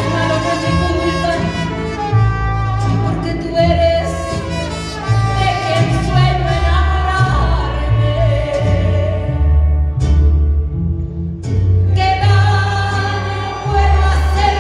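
Live music: a ballad played by a band with violins over a bass line that steps between notes, with a brief drop-out of the higher instruments just after ten seconds before the full band comes back in.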